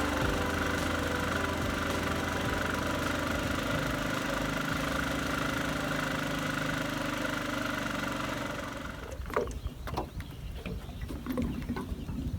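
A small engine running steadily, then cut off about nine seconds in, followed by scattered knocks and clatter.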